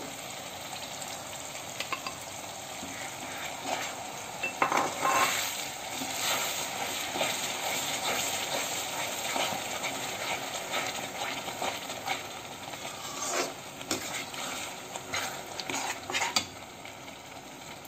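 Tomato purée sizzling as it cooks into a fried onion-and-spice masala in a kadai, stirred with a metal slotted spoon that scrapes against the pan in bunches of strokes.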